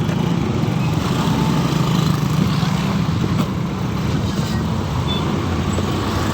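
Steady motorcycle engine and road noise while riding through heavy traffic.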